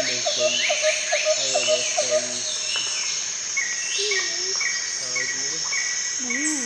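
Tropical rainforest ambience: a steady high insect drone with bird-like whistles, a rhythmic low pulsing call in the first half, and a run of short repeated chirps from about three and a half seconds in.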